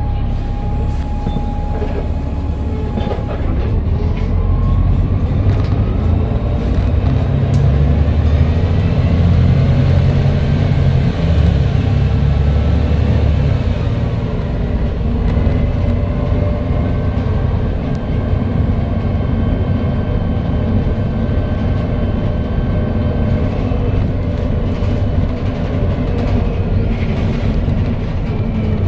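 Volvo B7TL double-decker bus's turbodiesel engine and Voith automatic gearbox under way, with a slight turbo whistle over the engine drone. The whine rises as the bus accelerates over the first several seconds, then levels off.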